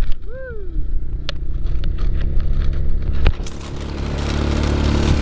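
Small single-cylinder motorbike engine, a Honda Dream, running while riding over rough ground, with knocks and rattles from the bumps and a short rising-and-falling squeak a fraction of a second in. Wind noise on the microphone comes up about two-thirds of the way through.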